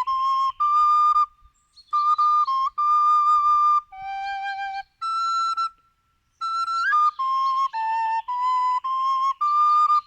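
A flute-like wind instrument playing a melody of separate held notes, stepping up and down in pitch, with two short pauses.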